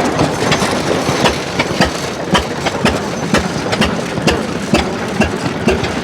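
Old machinery running, with a steady noise and sharp, irregular clicks and knocks a few times a second.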